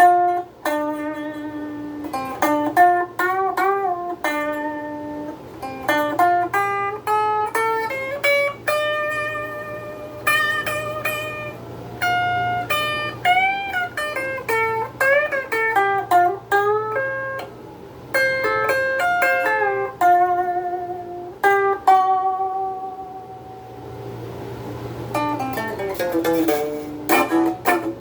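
Electric strat-style guitar, a Donner DST-80 on its bridge pickup, played clean through its small stock practice amp: single-note lead lines with string bends and vibrato. A steady low hum sits underneath.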